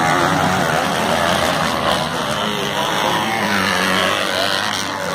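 Several racing motorcycles running at high revs, their engine notes rising and falling as they accelerate and shift.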